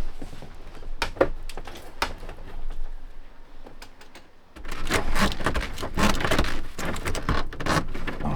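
Irregular knocks and clicks of hand work in a boat's hull. About halfway through they turn into a busier, louder run of clattering and scraping.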